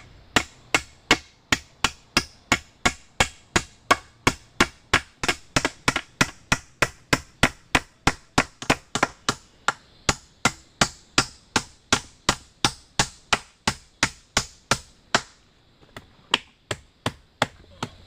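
Rapid, even chopping: about three sharp strikes a second for some fifteen seconds, then a short pause and a few lighter strikes near the end.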